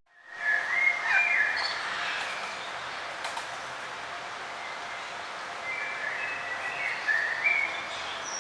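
Songbird singing in short warbling, chirping phrases, one burst right after the start and another near the end, over steady outdoor background noise. The sound drops out briefly at the very start, a cut in the recording.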